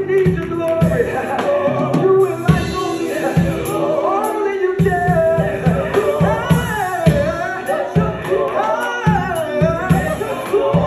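Live gospel music: a male voice sings sliding, melismatic runs over a band keeping a steady low beat.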